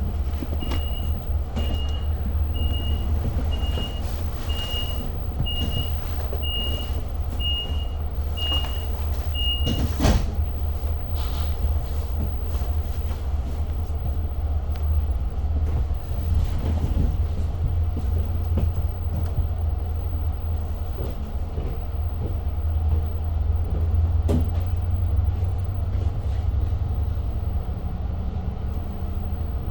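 Inside a Long Island Rail Road passenger car: a high door-warning beep repeats about once every three-quarters of a second for some nine seconds, ending in a sharp knock about ten seconds in as the doors close. Under it runs the steady low rumble of the train, which carries on as it gets under way.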